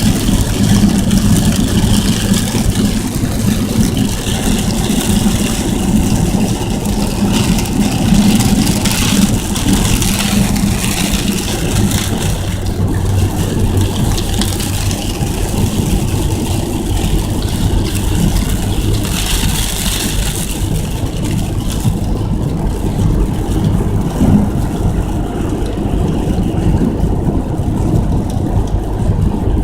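A car driving on the freeway in heavy rain, heard from inside the cabin: a steady low road and engine rumble under the hiss of rain and spray hitting the car. The rain hiss thins out about two-thirds of the way through.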